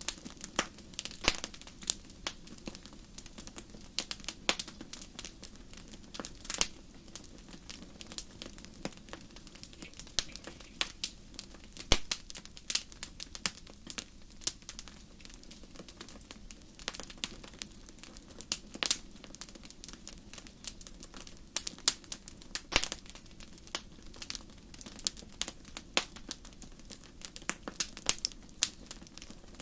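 Wood campfire crackling: irregular sharp pops and snaps, some louder than others, over a soft steady low background.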